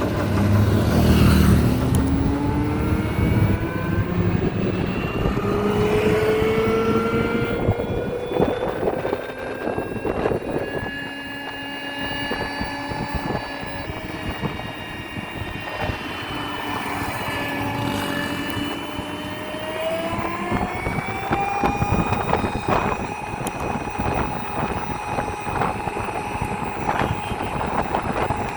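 Hero Vida VX2 electric scooter's motor whining while riding, several high tones together. The whine climbs in pitch as the scooter speeds up, levels off, dips briefly around the middle, then climbs again and holds steady near the end, over a rushing road noise.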